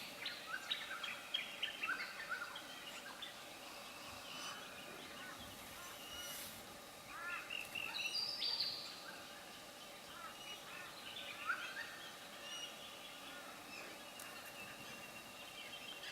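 Small birds chirping and calling in short repeated bursts, busiest near the start and again about halfway through, over a faint steady background.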